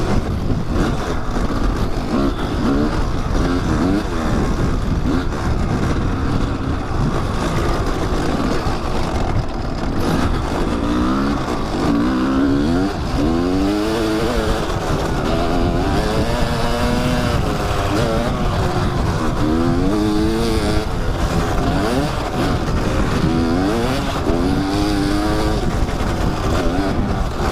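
Kawasaki dirt bike engine being ridden on an off-road trail, its pitch rising and falling again and again as the throttle is opened and closed, over a constant rough rumble.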